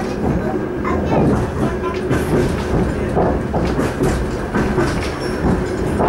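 Suburban passenger train running at speed, heard from inside the carriage: a steady rumble of wheels on rails with scattered short clicks.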